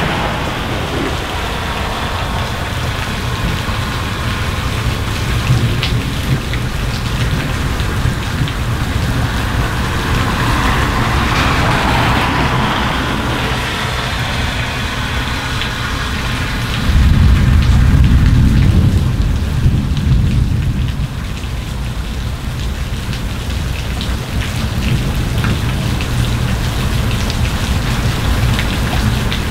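Steady rain, with a low rumble of thunder that starts suddenly about seventeen seconds in and fades over a few seconds. Around the middle, a car's tyres hiss past on the wet road.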